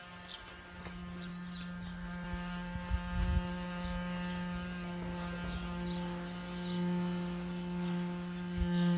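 A small electric motor humming steadily at one pitch, with faint short high chirps over it.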